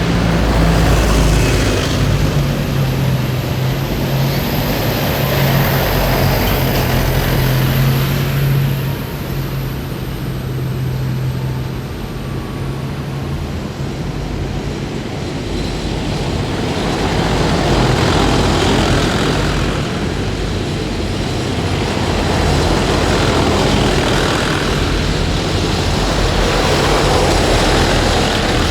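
A column of heavy military vehicles driving past, with their engines running loudly. A steady low engine note holds for the first half, and the sound then swells and fades several times as further vehicles pass.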